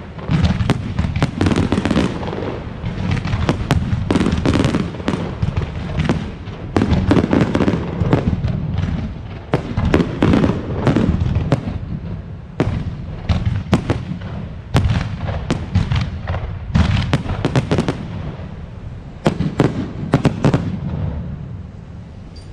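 Fireworks display: a dense, rapid barrage of aerial shell bursts and sharp bangs over a continuous low rumble. The bangs thin out and the level falls in the last couple of seconds.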